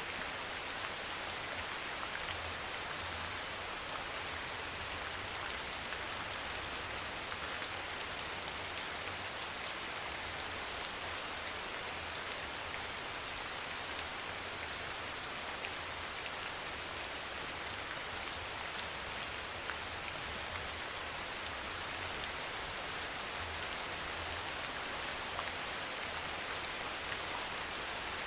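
Steady soft rain falling on a surface, an even hiss with many fine drop ticks and a faint low rumble underneath.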